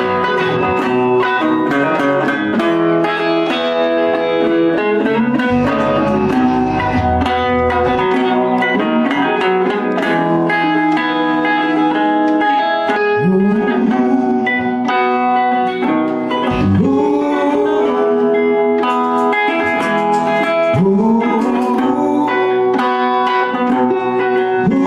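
A band playing, led by guitars, with a note sliding up in pitch three times, about halfway through and again near the end.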